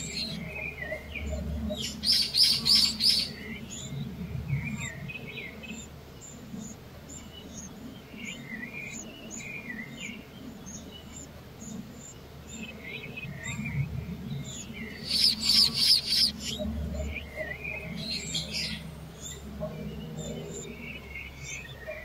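Wild birds singing: two loud bursts of rapid high trilling, about two seconds in and again about fifteen seconds in, with shorter chirps scattered between.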